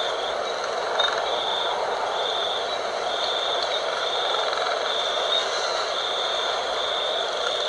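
Night-time outdoor ambience: a steady rush of wind with a high, thin chirping trill that pulses on and off in short bursts, a little more than once a second.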